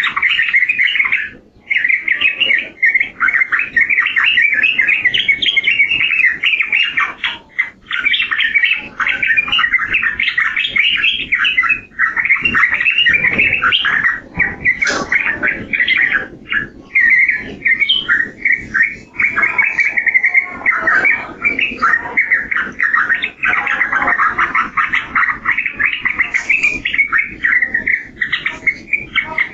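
Yellow-vented bulbul (trucukan) singing in a rapid, continuous chatter of notes, with only a few brief breaks.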